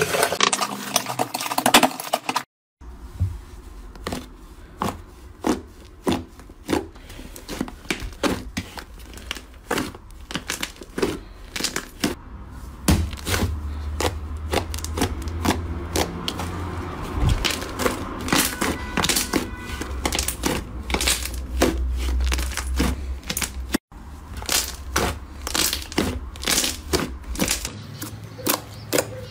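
Slime being worked, giving a dense run of sharp crackling clicks and pops over a low steady hum, broken twice by abrupt cuts.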